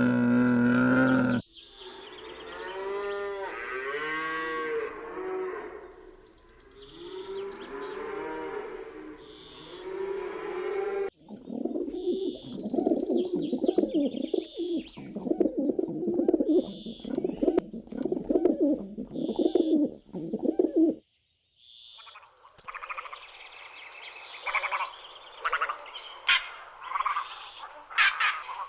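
A sequence of animal calls: a cow's low moo ends about a second in, followed by a long run of varied bird calls and cooing, broken by a brief silence about three-quarters of the way through before chirping resumes.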